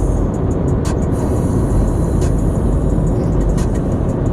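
Steady low rumble of a car driving, with road and engine noise heard from inside the cabin and a few faint clicks.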